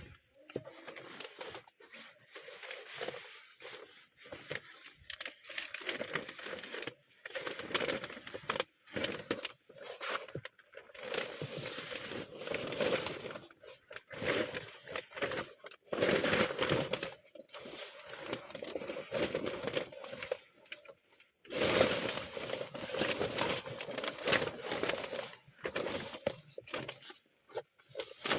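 Irregular rustling, crackling and scraping, in uneven bursts of a second or two.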